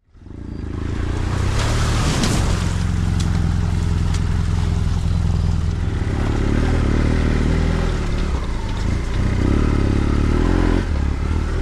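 Vehicle engine running at a steady pace under continuous road and wind noise, fading in at the start.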